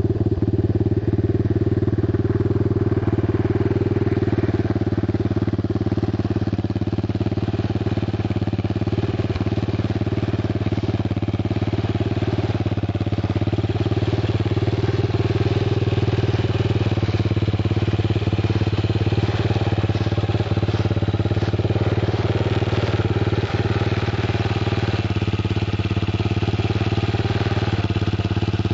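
Zongshen DB-200 dirt bike's 200 cc four-stroke single-cylinder engine idling steadily at −32 °C.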